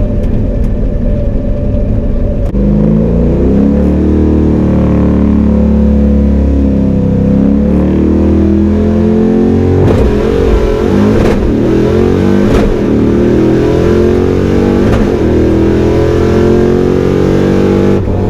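Ford 5.0 V8 with short open exhaust dumped behind the doors, run hard on a drag-strip pass. The engine jumps in revs about two and a half seconds in, then its pitch climbs and drops back several times as it pulls through the gears.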